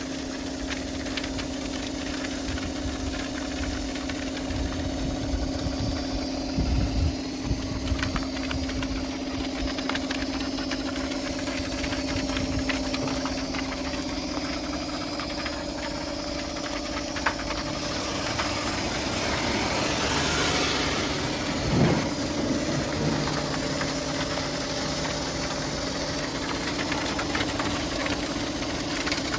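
Pressure washer running steadily with a constant hum, its high-pressure water jet hissing, the spray growing louder for a few seconds past the middle, with a brief thump near the loudest point.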